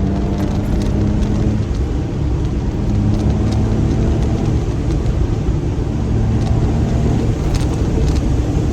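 Brabus smart fortwo's small three-cylinder engine pulling under hard driving, with heavy road and wind rumble. Its note holds steady in three stretches with short breaks between them, about two seconds in and again about five seconds in.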